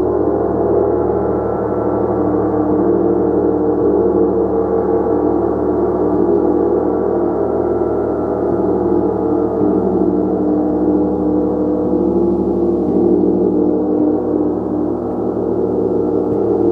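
Gong played continuously, a dense, steady drone of many overlapping ringing tones with no single strike standing out.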